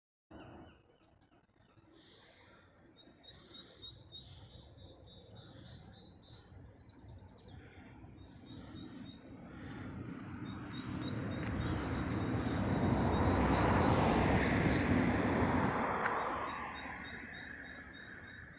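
Small birds chirping repeatedly. A passing vehicle's tyre and engine noise swells and fades over several seconds in the second half.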